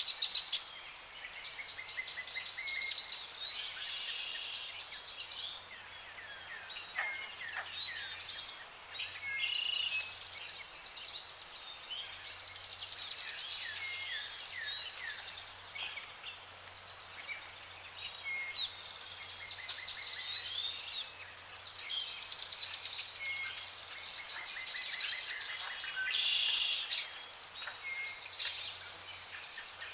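Several songbirds singing at once, a continuous chorus of high chirps, trills and quick notes overlapping one another.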